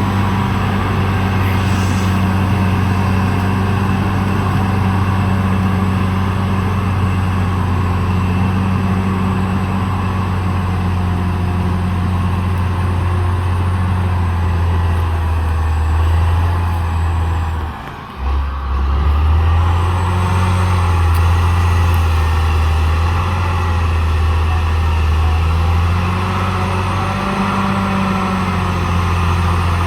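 Caterpillar D6R XL bulldozer's diesel engine running steadily under working load, its pitch shifting up and down. The sound drops out briefly about eighteen seconds in.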